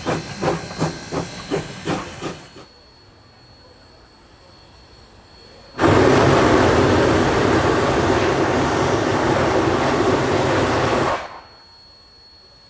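Narrow gauge steam locomotive working, its exhaust chuffing about three times a second and fading out in the first couple of seconds. After a lull, a loud steady hiss of venting steam comes in about six seconds in, lasts about five seconds and cuts off suddenly.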